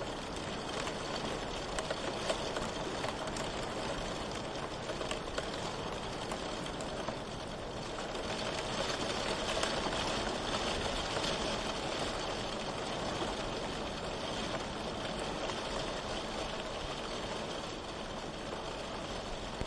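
Steady rain falling, an even hiss with faint scattered drop ticks, swelling slightly about halfway through.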